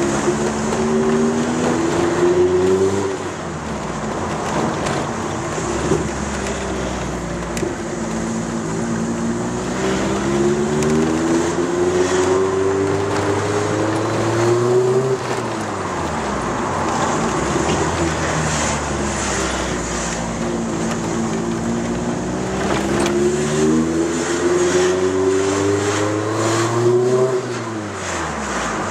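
Opel Kadett GSI's 2.0-litre 8-valve four-cylinder engine with a tuned exhaust, heard from inside the cabin while the car is driven hard. The engine note climbs steadily as the revs rise, then falls away sharply about three seconds in, again midway and again near the end, as the driver shifts or lifts off.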